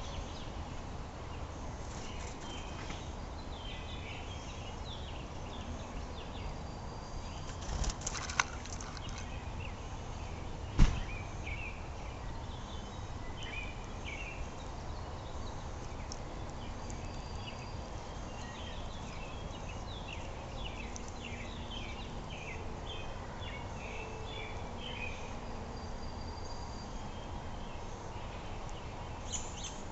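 Small birds chirping in quick runs of short high notes, coming in clusters, over a steady low rumble. A sharp knock sounds about eleven seconds in, the loudest thing heard, with a few softer clicks a little before it.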